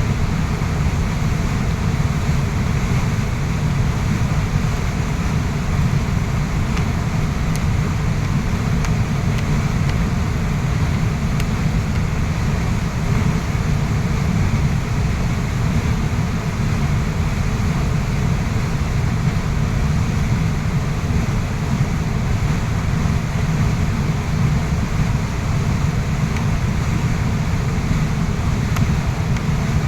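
Waterfall pouring steadily, a continuous rush of water with a heavy deep rumble underneath.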